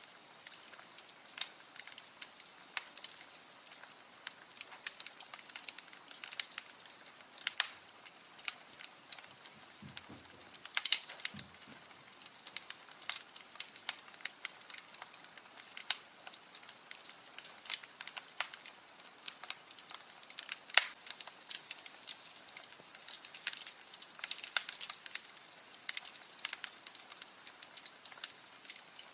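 Wood fire burning in a fireplace, crackling with irregular sharp pops over a steady hiss; a few pops stand out louder.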